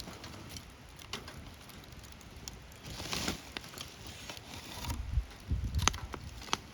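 Wood bonfire crackling, with scattered sharp pops and a short hiss about three seconds in. A low rumble, the loudest sound, comes about five seconds in.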